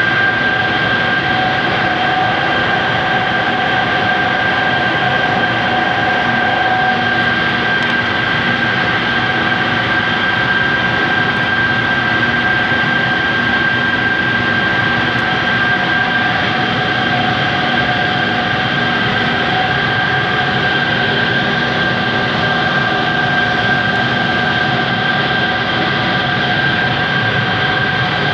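Multistage centrifugal compressor running: a loud, steady mechanical whine with a high, constant tone over a dense rush of machine noise, unchanging throughout.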